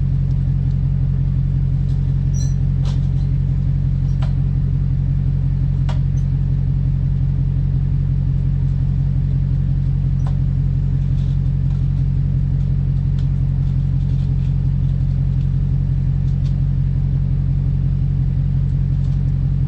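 Dodge SRT Hellcat's supercharged V8 idling with a steady low rumble, with a few faint clicks.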